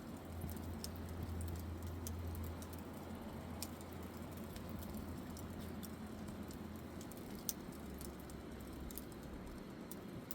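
Wood campfire crackling, with scattered small pops and one sharper pop about seven and a half seconds in.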